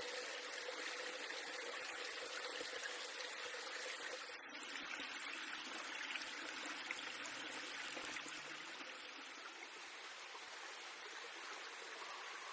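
Steady rush of running water, like a stream or brook flowing.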